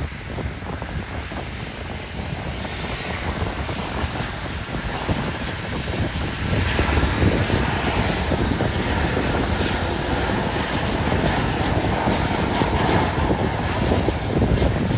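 Airliner jet engines running, a loud, even rush that grows louder about six seconds in, with wind buffeting the microphone.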